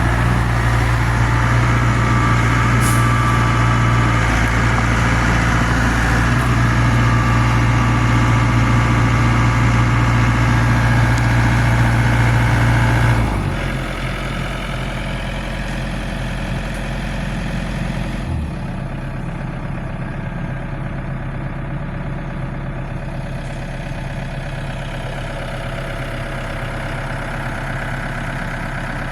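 Zoomlion excavator's heavy diesel engine running steadily at high revs, then dropping to a lower, quieter speed about 13 seconds in and settling to idle around 18 seconds. No hammering from the breaker is heard.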